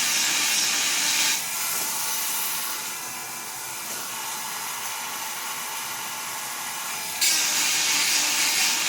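Granberg 12-volt electric chainsaw sharpener running with a steady whine, its grinding bit rasping against a chain cutter with a loud hiss for about the first second and a half and again from about seven seconds in, and quieter in between.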